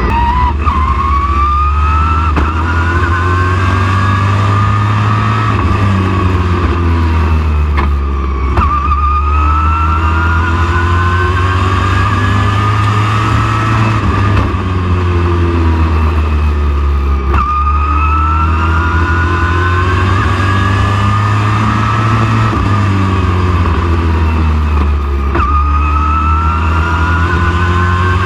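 Race truck engine at racing speed on a short oval, its pitch climbing steadily for about seven seconds as it accelerates, then dropping sharply as the driver lifts for a corner, over and over every eight to nine seconds.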